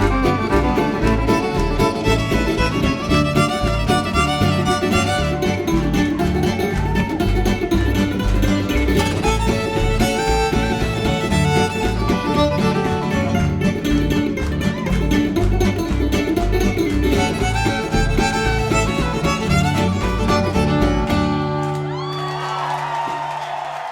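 Bluegrass instrumental break with fiddle and guitar over a steady beat, ending about 21 seconds in on a held final chord that fades.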